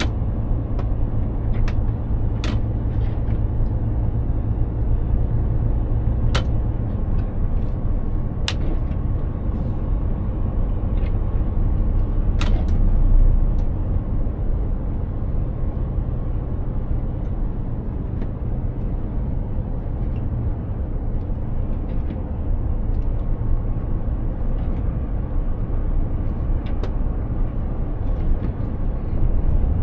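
Mercedes-Benz Actros heavy truck driving, a steady low engine and road rumble. A few sharp clicks or knocks sound in the first half.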